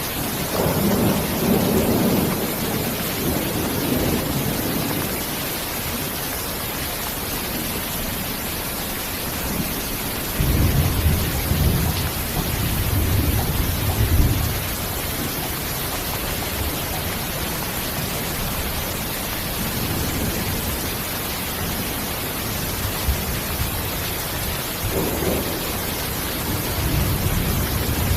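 Steady rain with low rolls of thunder: one rumble in the first few seconds, a longer one from about ten seconds in, and a short one near the end.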